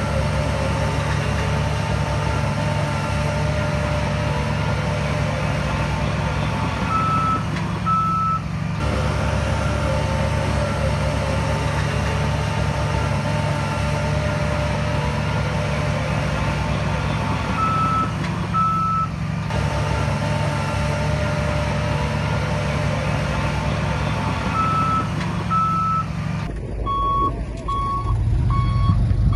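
Heavy diesel earthmoving machinery running steadily, with short pairs of warning beeps about every ten seconds as a machine shifts into reverse. Near the end, a reversing alarm beeps steadily about once a second over a deeper engine rumble.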